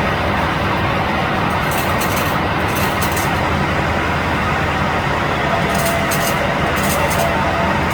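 KiHa 281 series diesel railcar running: a steady, loud drone of engine and running noise, with short clusters of high ticking now and then.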